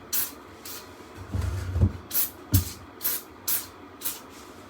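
Spray bottle of chemical cleaner being squirted onto a dirty furnace blower wheel: a series of short hissing squirts, about seven of them, with a few dull knocks in between.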